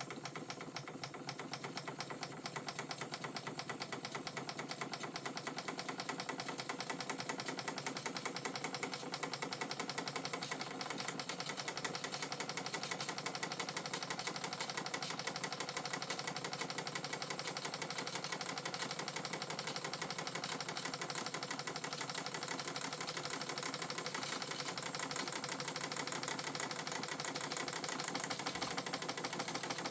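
Vintage Krick model marine steam engine running steadily with a fast, even mechanical clatter.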